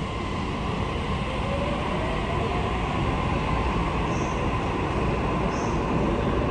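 Sydney Trains double-deck electric train moving at the platform: a steady low rumble with a faint steady whine. Two brief faint high chirps come in the second half.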